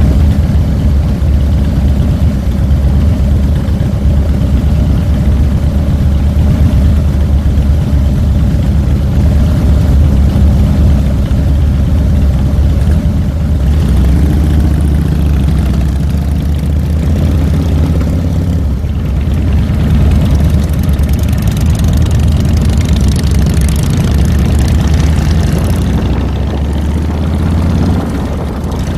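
2007 Harley-Davidson Fat Boy's air-cooled Twin Cam V-twin running, heard from a handlebar-mounted camera: a steady low engine note whose pitch shifts about halfway through.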